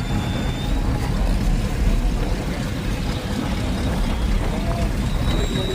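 Steady low rumble of motor vehicles running, with indistinct voices mixed in.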